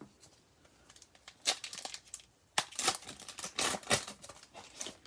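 A foil trading-card pack wrapper being torn open and crinkled, in irregular crackling bursts.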